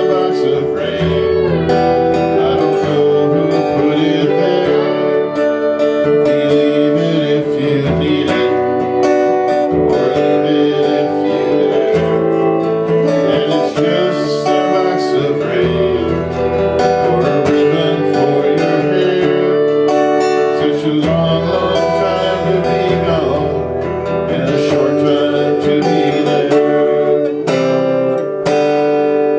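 Acoustic guitar strummed and picked, with singing.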